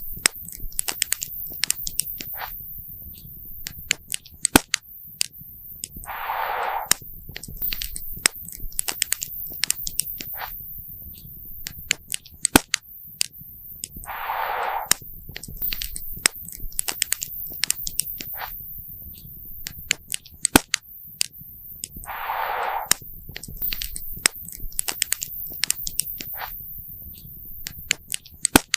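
Wood fire crackling, with many irregular sharp pops and snaps. A brief rushing hiss lasting about a second comes back about every eight seconds.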